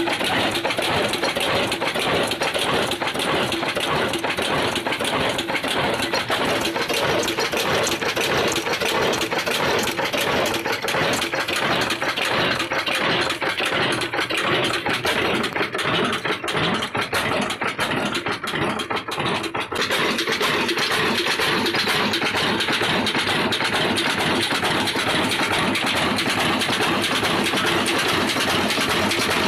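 Old Ruston & Hornsby diesel engine running with a rapid, even beat. About halfway through the sound thins and wavers for several seconds, then it runs steady again.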